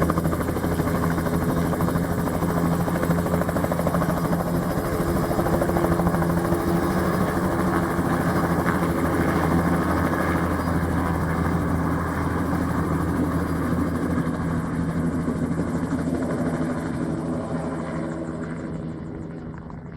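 Bell JetRanger helicopter running, its single turbine and rotor making a steady hum. The sound grows fainter over the last few seconds.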